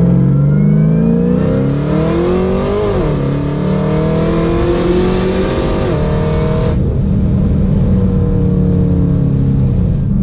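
Supercharged LSA V8 heard from inside the cabin, rising in pitch as the car accelerates, dropping abruptly about three seconds in at an upshift, then climbing again. Near seven seconds a hiss over the top cuts off and the engine settles to a lower, steadier note as the throttle closes.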